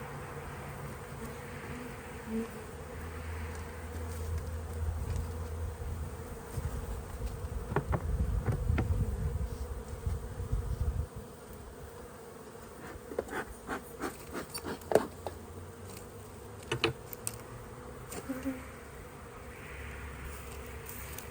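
Honey bees buzzing steadily around an open hive. A few sharp clicks and knocks come in the second half.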